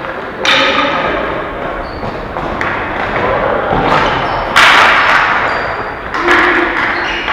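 Ball hockey play: a series of loud thuds and knocks as the ball and sticks strike the boards, each hit ringing on briefly.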